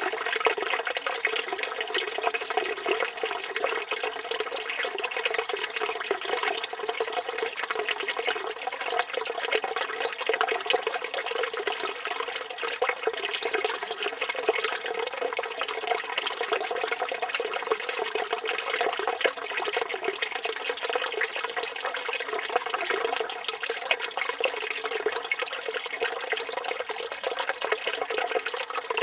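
Water pouring steadily from a village fountain's spout and splashing into the basin below.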